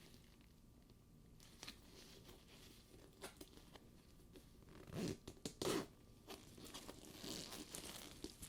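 Hands handling a studded faux-leather purse: soft rubbing and rustling of the leather with scattered light clicks, and a louder run of handling noises about five to six seconds in.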